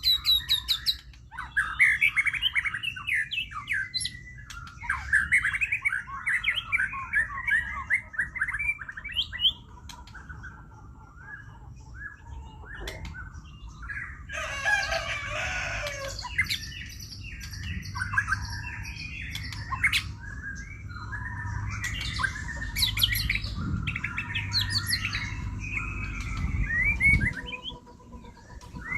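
White-rumped shama (murai batu) singing hard: a long, unbroken run of rapid, varied whistled phrases, with a harsh noisy burst about halfway through.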